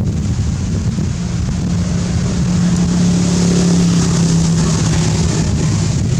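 Wind buffeting the microphone, with a steady low engine-like hum that comes in about a second in and fades out near the end.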